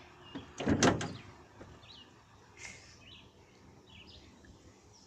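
A dull thump or bump of handling noise under a second in, then faint, brief bird chirps over a low outdoor background.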